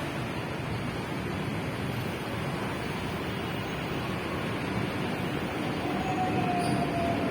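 Train pulling into a station: a steady rumbling noise that grows a little louder, with a faint thin squeal near the end.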